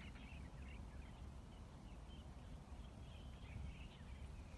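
Faint, distant small birds chirping repeatedly over a low, steady outdoor rumble.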